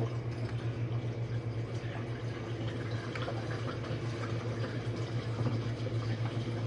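Jenn-Air dishwasher running its main wash on a full load: a steady low pump hum with water spraying and sloshing inside the tub. It runs fairly quietly for such a big load.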